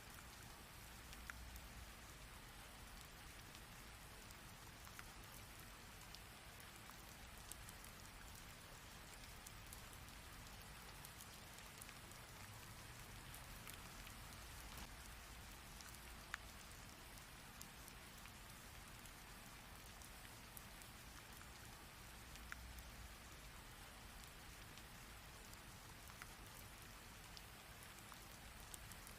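Rain falling steadily: a faint, even hiss with single sharp drop ticks every few seconds.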